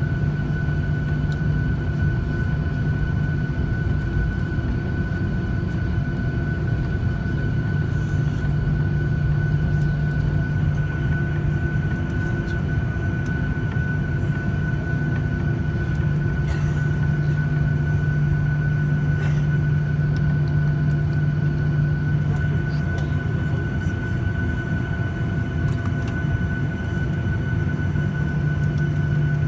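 Boeing 737-800's CFM56 jet engines running steadily: a constant high whine over a low drone and rushing noise, with no rise or fall in level.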